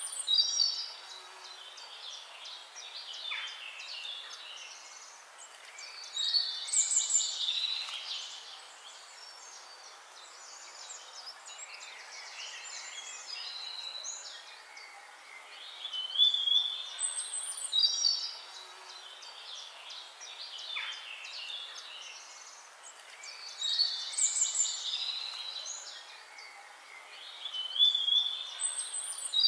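Birds singing: high chirps and trills come in phrases every few seconds, louder at times, over a steady background hiss.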